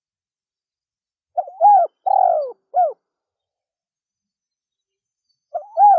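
Spotted dove (tekukur) cooing. One phrase of about four notes, a short note, an arched coo, a longer coo and a short final note, comes about a second and a half in. A second phrase starts near the end.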